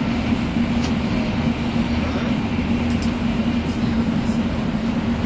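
Inside a 300 Series Shinkansen running at speed: a steady rush and rumble of the train on the rails, with a steady low hum underneath.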